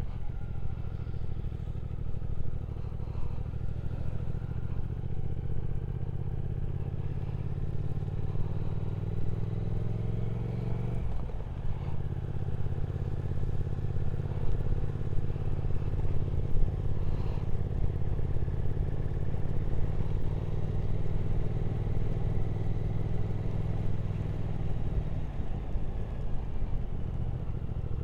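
Triumph Speed Twin 1200's parallel-twin engine under way, revs climbing slowly, with a gear change about eleven seconds in. It then pulls steadily again until the throttle eases off near the end.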